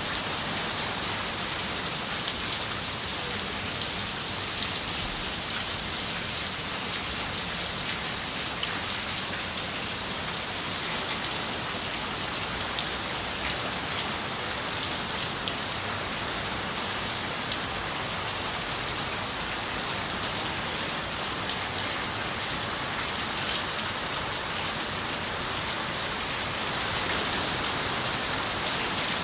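Steady rain on a window pane: an even hiss with many fine drop ticks, growing a little louder near the end.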